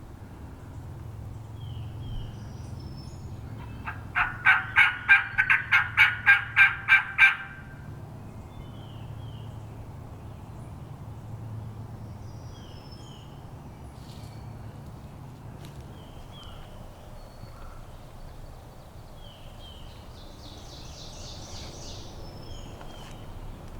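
A run of about eleven loud, evenly spaced turkey yelps lasting some three seconds, starting about four seconds in. Faint songbird chirps sound here and there.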